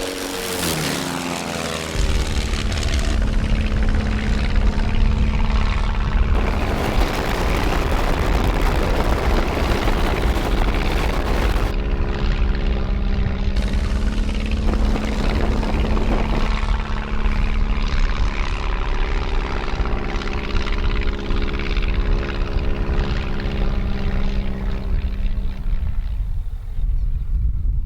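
Fokker aircraft's propeller engine running in flight, its pitch dropping in the first couple of seconds, then a steady drone over a heavy low rumble that fades near the end.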